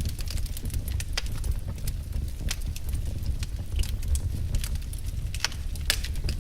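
Wood fire crackling: irregular sharp pops and snaps over a steady low rumble of burning firewood.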